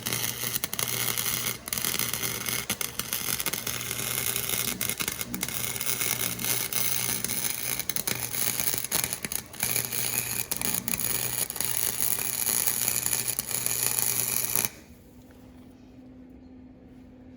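Cheap welder's arc crackling steadily while welding a steel exhaust pipe, with a steady electrical hum under it, then cutting off suddenly near the end.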